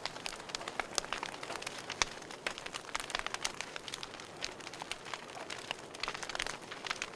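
Wood fire in a fireplace crackling: irregular sharp pops and snaps over a soft steady hiss of burning, one louder pop about two seconds in.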